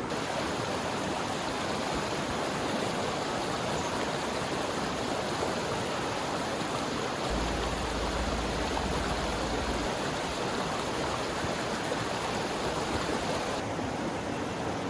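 Mountain stream rushing steadily, the water running high and fast. A low rumble joins in for a few seconds midway.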